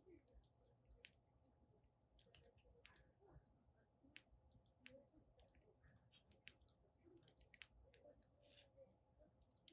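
Wood fire burning in a fire pit, crackling faintly with irregular sharp pops and snaps.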